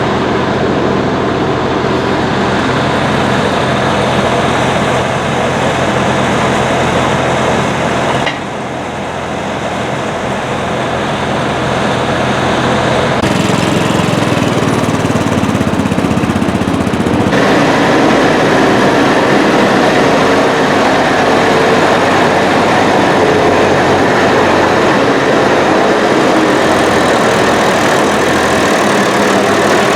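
Farm tractor diesel engines running steadily, the engine note changing abruptly about 8, 13 and 17 seconds in.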